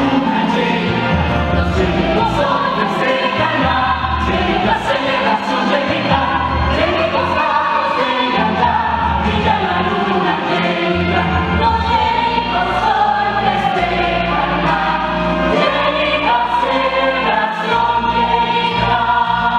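Music: a choir singing with instrumental accompaniment and a steady bass line.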